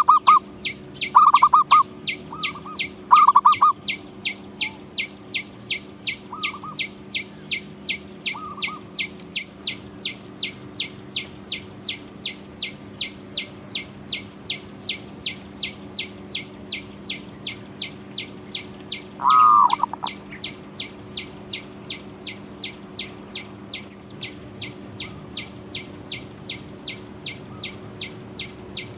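Birds calling: a high, falling chirp repeated evenly a little over twice a second throughout, with louder, lower short calls in the first few seconds and again once about two-thirds of the way in.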